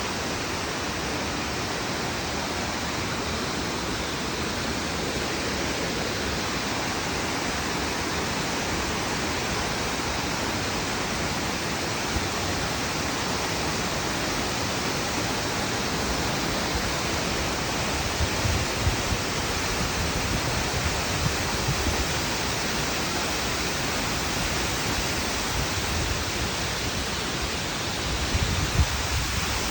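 Waterfall about 25 m high pouring heavily, its flow swollen after rain: a steady, even rushing hiss. A few brief low bumps break through in the second half.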